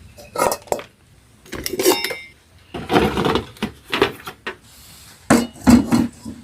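Kitchen dishes and utensils clattering in a string of short bursts, one with a brief ringing clink about two seconds in.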